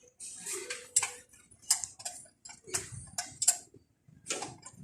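Hand tools clinking and tapping on metal motorcycle parts: a handful of sharp, irregular knocks, under a second apart.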